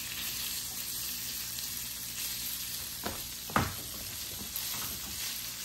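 Diced ham frying in melted butter in a nonstick pan: a steady, soft sizzle while it is stirred. Two brief knocks of the stirring utensil against the pan come a little past halfway, the second the loudest sound.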